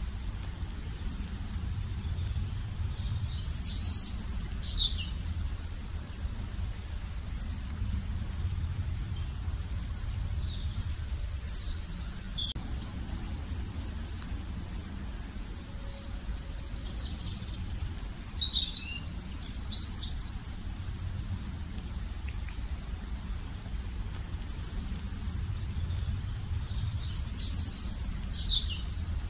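Wild birds singing: high chirps and trills, with louder phrases about four, twelve, twenty and twenty-eight seconds in. A low, steady rumble runs underneath.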